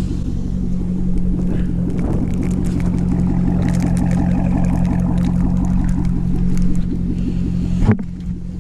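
Chevrolet Corvette V8 idling steadily during a cold-morning warm-up, with a faint regular pulse to its running and a few light clicks and scrapes. Near the end there is a single sharp thump.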